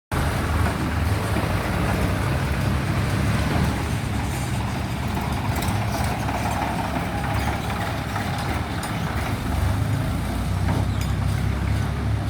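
A vehicle engine running with a steady low rumble and a few faint clicks, starting abruptly.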